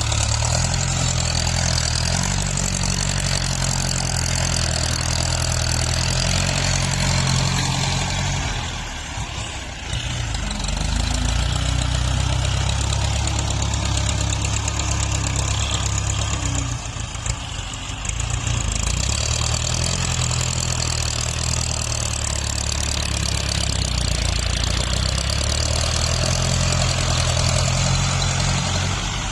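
Tractor's diesel engine running steadily while grading soil, its low drone easing off briefly twice, about a third and two thirds of the way through.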